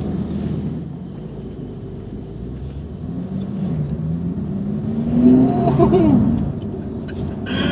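Porsche 911 Carrera GTS (991.2) twin-turbo flat-six heard from inside the cabin while driving, with a steady drone, then rising in pitch as the car accelerates and dropping back a little after five seconds in.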